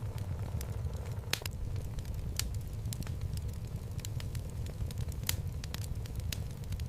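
Wood fire burning in a home fireplace: a steady low rumble of the flames with irregular sharp crackles and pops from the logs.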